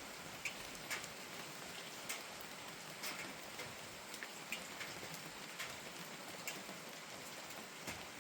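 Steady rain falling, with single drops ticking sharply at irregular moments, about one or two a second.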